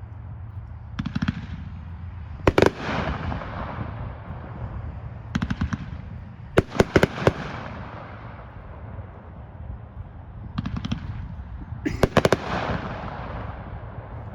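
Consumer aerial fireworks cake, "Jam Packed", firing in volleys. Each volley is a quick cluster of sharp reports, and about six come in turn. The loudest clusters, a little after two and a half seconds, around seven seconds and around twelve seconds, trail off in a fading hiss.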